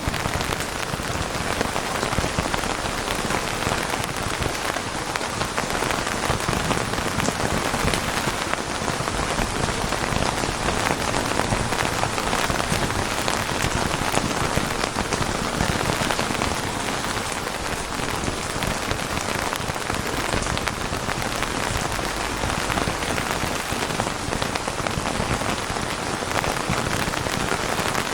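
Steady heavy rain falling on a surface, a dense even patter of raindrops.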